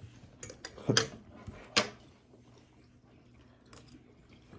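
A metal fork clicking and tapping against a plate while eating: a few short, sharp clicks, the loudest about one and two seconds in, then a faint one near the end.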